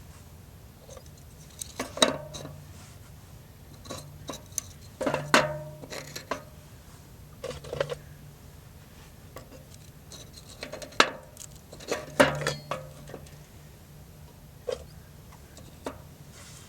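Metal camp cookware and utensils being handled: scattered clinks and knocks, some briefly ringing, the loudest about two, five, eleven and twelve seconds in.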